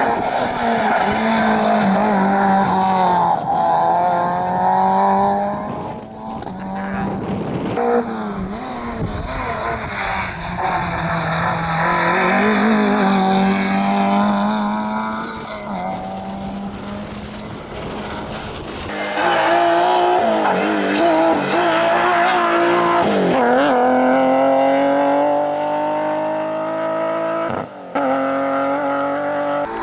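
Rally cars at full throttle on a hillclimb stage, a series of passes one after another: engines rising in pitch as they accelerate, falling back at each gear change, with tyres squealing at times.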